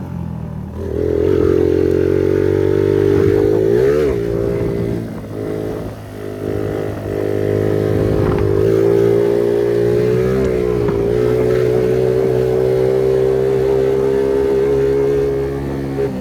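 Phoenix 50cc moped engine, its exhaust fitted with a pop-and-crackle device, revved up about a second in and held at high revs while riding. The pitch drops and climbs again around four seconds in and dips once more a few seconds later, then stays steady and high.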